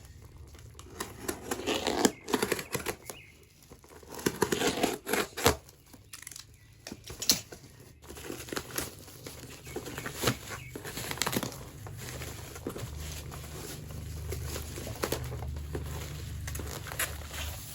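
Toy packaging being crinkled and torn open by hand, in irregular rustling bursts with sharp clicks, loudest in the first few seconds and lighter handling after that.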